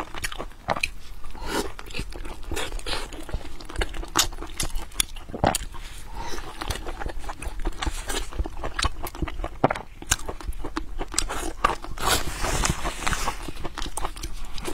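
Close-miked wet chewing, biting and lip-smacking as a person eats soft, fatty braised pork, with many irregular sticky mouth clicks.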